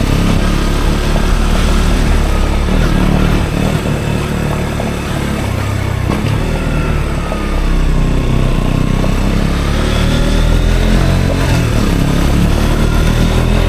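KTM Duke 125's single-cylinder four-stroke engine running loud through an Akrapovic exhaust while riding. It eases off about four seconds in, then pulls up again with a rising pitch from about eight seconds.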